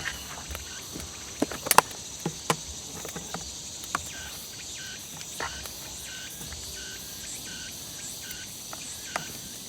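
Insects chirping steadily, with a short chirp repeating about twice a second through the middle. Over this come a few sharp clicks and knocks of cooking gear being handled, clustered about two seconds in, with one near the end.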